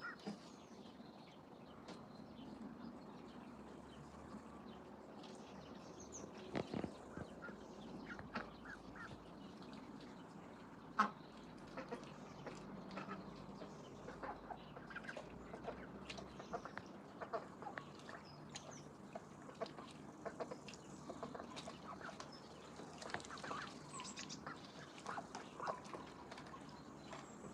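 Ducks calling, a run of short calls and clicks that goes on throughout.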